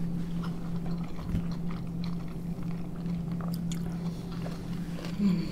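Mouth sounds of people chewing soft boiled pelmeni, with faint wet clicks scattered through, over a steady low hum.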